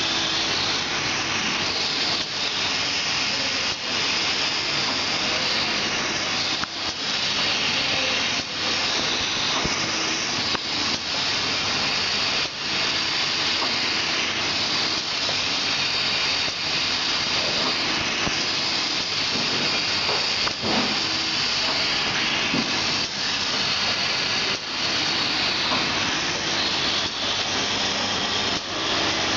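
Automatic POF shrink-film packaging machine running: a steady hiss, with faint short knocks and small dips about every two seconds.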